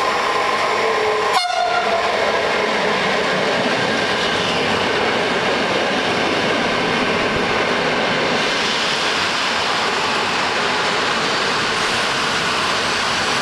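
Trenitalia regional train pulling into the station alongside the platform. A few held tones break off with a click about a second and a half in, then the coaches roll past with a steady rushing wheel noise as the train slows. A thin high brake squeal comes in near the end as it draws to a stop.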